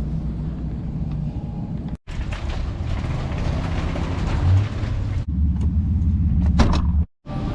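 Cabin sound of a Chevrolet Suburban driving: a steady engine drone with the hum of rough-tread tires. It comes as short pieces, with abrupt cuts about two seconds in and again near the end.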